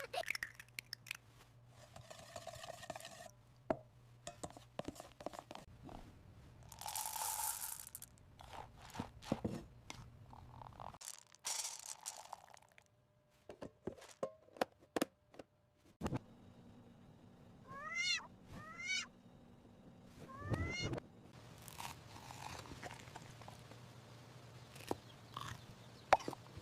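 Scattered small clicks and taps with two short bursts of hiss, then a few short, high, rising kitten mews about two-thirds of the way through.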